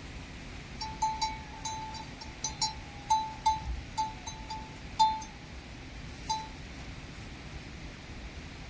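A metal bell worn by livestock clanking irregularly, about a dozen rings of one clear pitch over some five seconds, then stopping.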